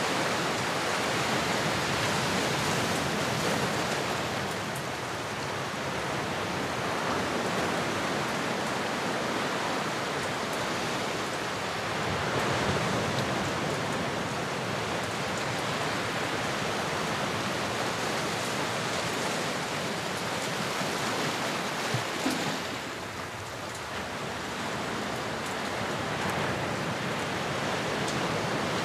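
Ocean waves washing in a steady surf, rising and falling slowly in level, with a couple of brief sharp ticks about three-quarters of the way through.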